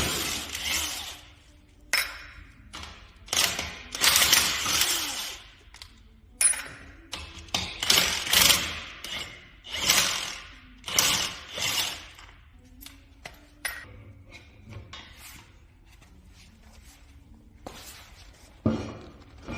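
Metal parts rattling and clinking in repeated bursts of about a second each, with sharp clicks between them and a quieter stretch near the end.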